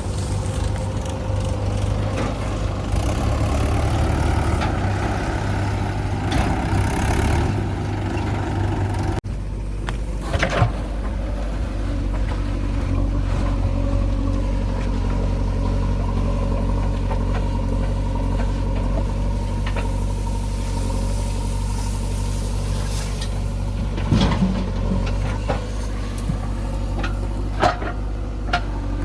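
Diesel engine of a backhoe loader at work loading mud, running steadily with a low drone. Its note changes abruptly about nine seconds in, and a few short knocks of the bucket and machinery come later.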